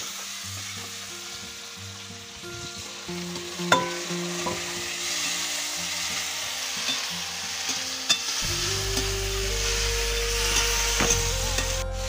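River crabs and vegetables sizzling in hot oil in a metal wok, stirred with a metal slotted spatula that clinks against the pan a few times.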